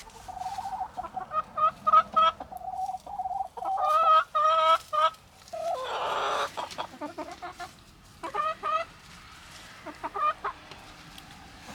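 Backyard chickens clucking, a run of short, repeated, insistent calls. About six seconds in there is a brief noisy rush, and the calls pick up again near the end.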